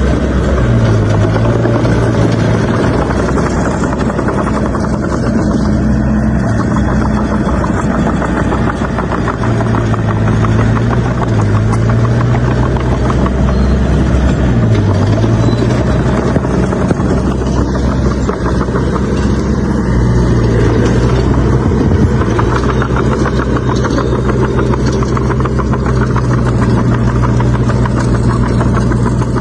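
Bulldozer's diesel engine working hard, its pitch rising and falling several times as the load changes, with a continuous metallic rattle over it.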